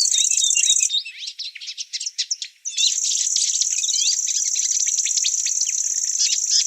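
Several birds chirping and singing over a high, steady insect trill. The trill breaks off about a second in and starts again near three seconds.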